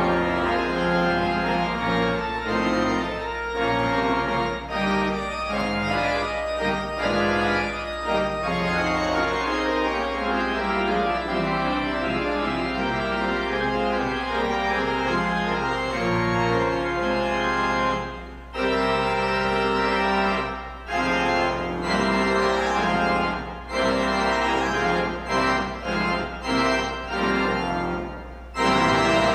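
Organ playing music in held chords, with a few short breaks between phrases in the last ten seconds.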